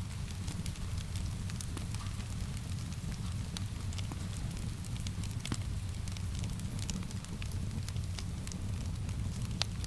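Wood fire crackling in a fireplace: irregular small pops and snaps over a steady low rumble of flames, with one sharper pop near the end. Steady rain noise is mixed in underneath.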